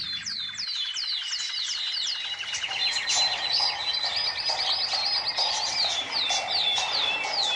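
A chorus of small birds chirping, with many quick downward-sweeping chirps overlapping and a trill about three seconds in.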